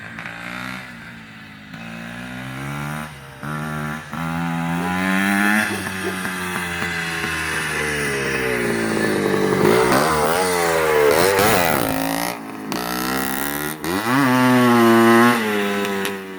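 1970 CZ 250 two-stroke single-cylinder motocross engine being ridden hard, its pitch climbing again and again as it revs through the gears. Short drops where the throttle is shut come a few times, and the loudest run is near the end.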